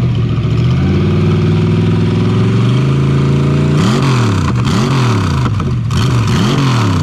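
Rat rod engine on open straight headers revving: a long, slow climb in pitch, then about five quick throttle blips, each rising and falling.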